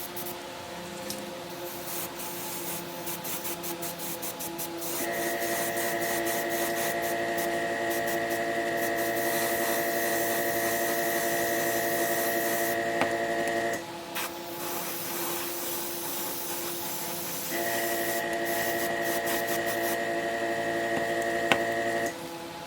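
A small motor runs steadily in two spells, the first about nine seconds and the second about five, each cutting off abruptly. Scratchy rubbing, like sanding, fills the gaps.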